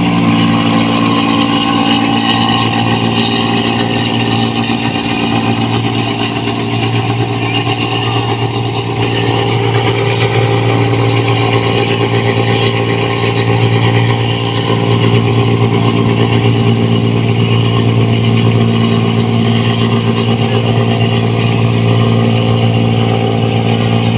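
New Holland 1545 combine harvester's diesel engine running steadily with a loud, aggressive exhaust note.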